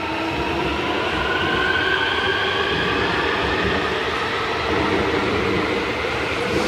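Electric airport-rail train running alongside an underground platform behind glass screen doors: a steady rumble of wheels on rails with a motor whine that slowly falls in pitch as the train slows.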